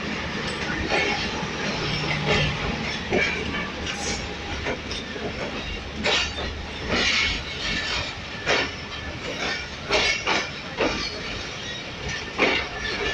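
Passenger train running on the track: a steady low rumble with irregular metallic clanks and clatter from the wheels and coaches.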